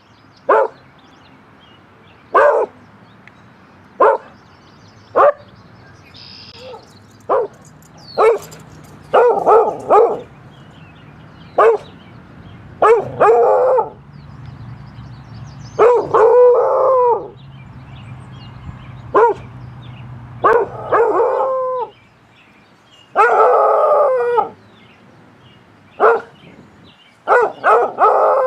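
A dog barking repeatedly. At first it gives single sharp barks every second or two; later the barks run longer and turn into drawn-out, howling barks.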